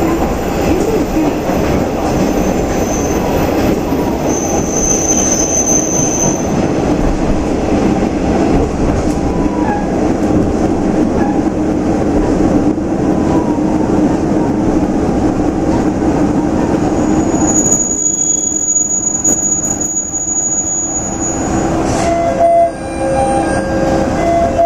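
Matsuura Railway MR-600 diesel railcar running on the rails, heard from on board: a steady engine and rolling rumble with thin high wheel squeals. The rumble eases about eighteen seconds in, and a sharp knock comes near the end, followed by a few steady tones.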